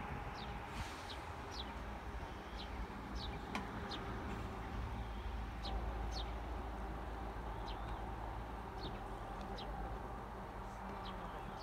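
Many short, thin, high-pitched bird calls, scattered one or two a second, over a steady low rumble.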